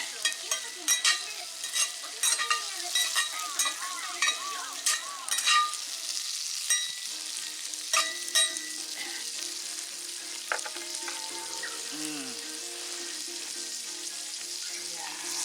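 Wood campfire crackling and hissing, with many sharp pops in the first half that thin out later.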